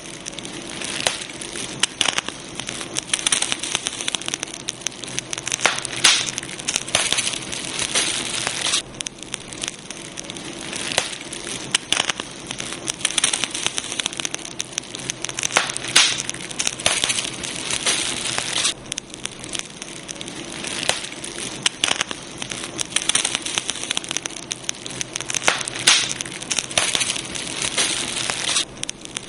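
Campfire burning: wood crackling and snapping in frequent sharp pops over a continuous hiss.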